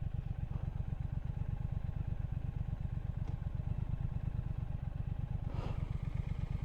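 Triumph Speed Twin 1200's parallel-twin engine idling with a steady, even low pulse.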